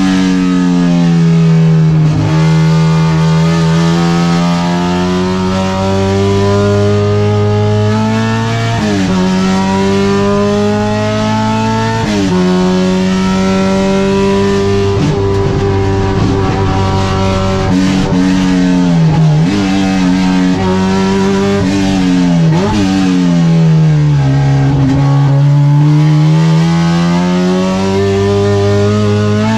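Honda K24 inline-four in an Integra track car, heard from inside the cabin at full pace, its pitch rising and falling with the revs through the corners. A few times the pitch jumps up suddenly, and it sweeps down and back up again in long curves.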